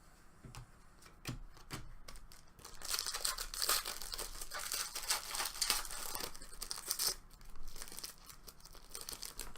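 Crinkling and rustling of plastic card packaging being handled, after a few light clicks.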